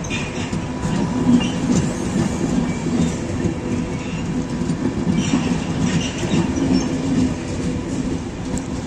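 HŽPP passenger coaches rolling past close by. Their steel wheels give a steady rumble on the rails, with light clicks over the rail joints.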